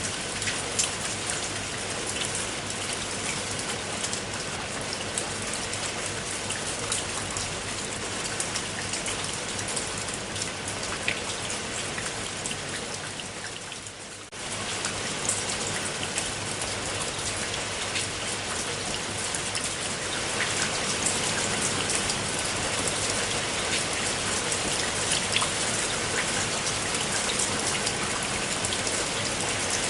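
Steady rain falling, with many separate drops pattering on a surface. The sound dips briefly just past the middle, then comes back and is a little louder in the last third.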